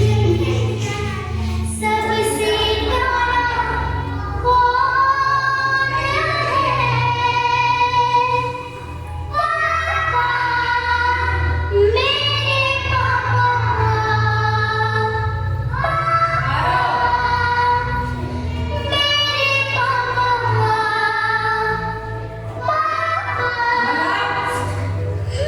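A children's song: a child's voice singing phrases with held notes over a steady musical backing.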